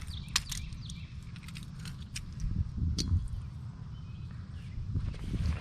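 Wind buffeting the microphone as a low rumble that swells and fades, with scattered sharp clicks and light rattling from close handling, and a few short falling bird chirps.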